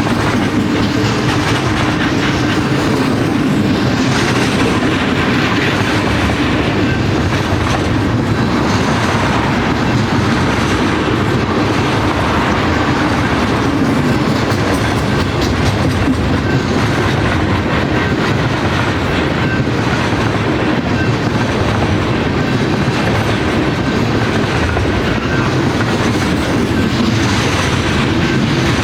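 A train's cars rolling steadily past on the rails, the wheels clicking over the track joints.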